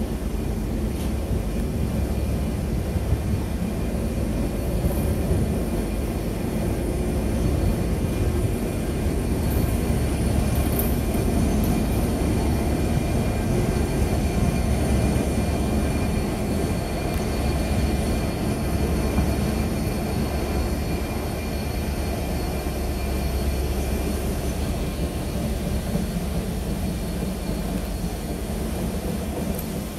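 A train at a railway station, running with a steady low rumble and faint steady high-pitched whining tones above it.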